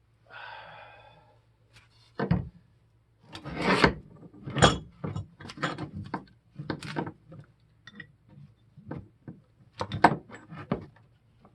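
A wrench turning a threaded fitting onto the furnace gas pipe. A brief scrape comes first, then irregular clicks, clanks and rasping scrapes as the fitting is worked round turn after turn and the wrench is repositioned.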